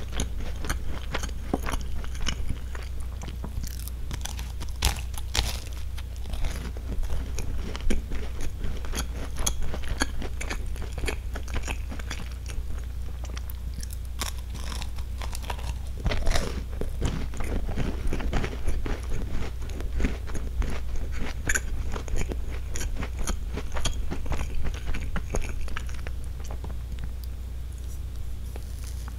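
Close-up biting and chewing of a crisp pink wafer-textured sandwich biscuit (a Roppongi Palette sweet), with irregular crunching and crackling. The crunching is thickest about four seconds in and again about sixteen seconds in.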